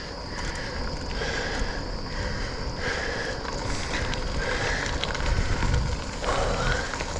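Specialized Sirrus X bicycle being ridden on wet ground in the rain: a steady rumble of tyre and wind noise, with a faint sound recurring about once a second.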